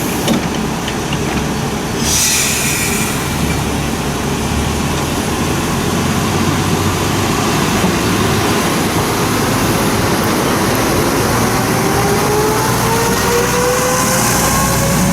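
Hojo Railway diesel railcar running at the platform, its engine noise steady, with a short hiss about two seconds in and a rising whine over the last few seconds as it speeds up.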